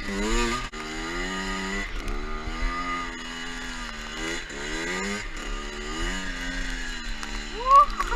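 Two-stroke dirt bike engine running under way, its pitch climbing and dropping over and over, with a quick sharp rev near the end.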